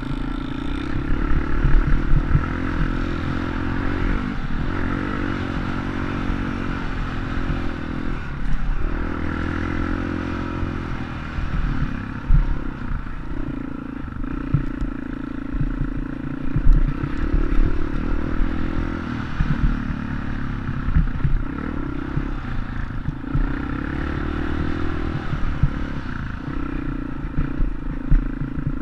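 Dirt bike engine running while being ridden, its note shifting up and down with the throttle and dipping every few seconds, with clattering knocks underneath.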